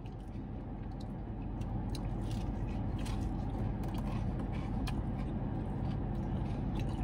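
Steady low hum inside a parked car cabin, with soft clicks of a man chewing and smacking his lips on fried chicken tenders.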